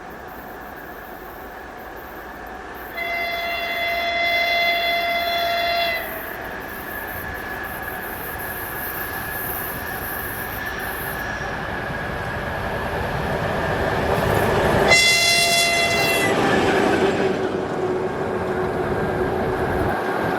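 A train approaching and passing, its locomotive sounding its horn twice: a long blast about three seconds in and a short one about fifteen seconds in. The running noise of the train grows louder toward the second blast.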